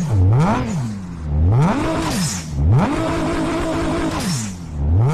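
Audi RS Q8's twin-turbo V8 being revved: the engine note climbs and falls back three times, the third rev held steady at high revs for over a second.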